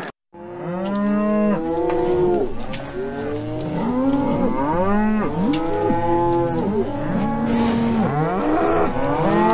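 Several dairy cows mooing, their calls overlapping one after another, each call rising and then falling in pitch.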